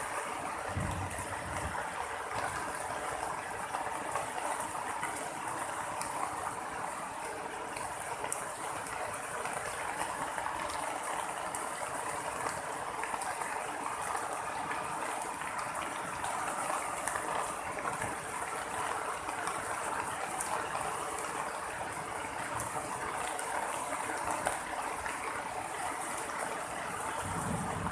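Steady rain falling in a thunderstorm: a continuous even hiss with scattered faint drip ticks.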